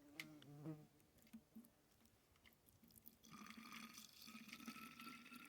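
Faint sound of liquid being handled as apple cider vinegar is mixed with boric acid. It starts a little past halfway and holds steady, after a few faint murmurs near the start.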